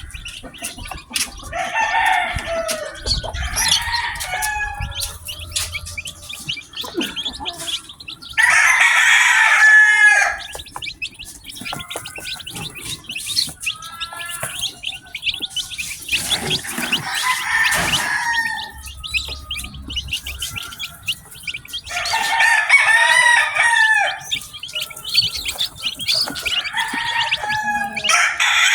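Newly hatched chicks peeping constantly in short, high chirps, with louder calls of a second or two from chickens about every six seconds.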